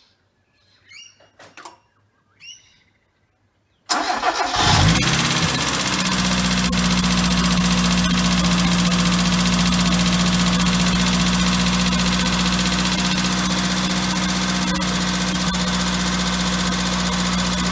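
After a few faint clicks, a Ford Laser TX3's DOHC 16-valve four-cylinder engine cranks briefly and catches about four seconds in. It flares up in revs, then settles into a steady idle, running on a new fuel pump that replaced a corroded, failed one.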